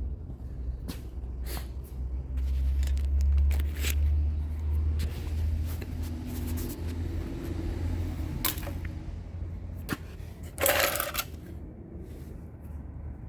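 Scattered clicks, clinks and knocks of hand tools and fasteners being worked while a car fender is taken off, over a steady low hum. A short rasping noise comes near the end.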